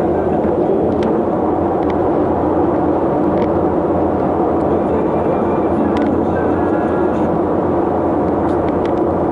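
Steady engine and road noise from a moving vehicle, an even drone with a few faint clicks.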